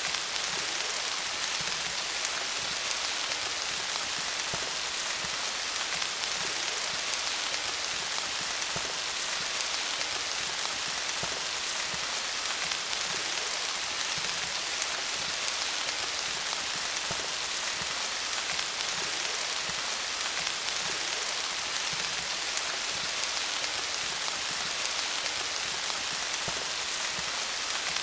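Steady rain falling on leaves: a dense, even patter of many small drops hitting foliage, with no change in intensity.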